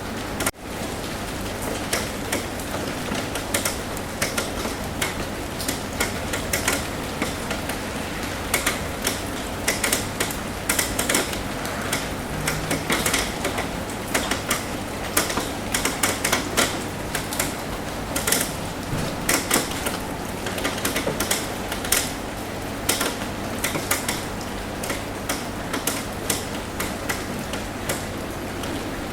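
Raindrops tapping irregularly and sharply on a roof over a steady hiss of rain.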